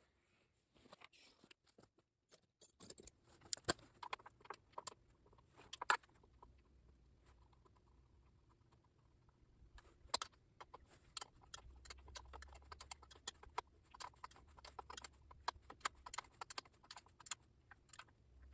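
Faint, scattered clicks, clinks and taps of hand tools and small metal parts being handled, with a few sharper taps, while a cover is fastened back onto a lawn tractor engine.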